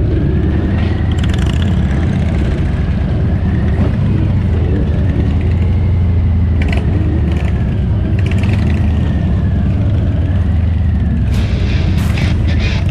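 Vehicle engine running steadily while on the move, a loud, even low drone, with a few sharp clicks near the end.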